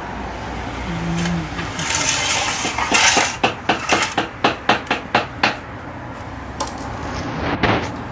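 Hammer tapping, a quick run of about ten light strikes at roughly four a second, after a short rustle; one more strike comes near the end.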